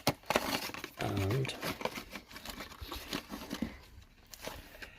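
Crinkling and rustling of packaging, with many small clicks and knocks, as a new fuel filter is handled and unwrapped.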